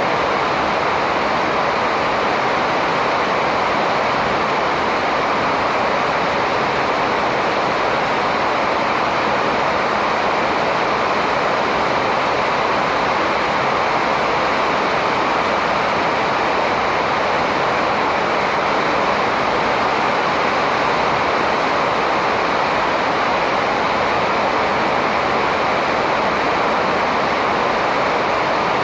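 A steady, even rushing noise that does not change, with no birdsong standing out.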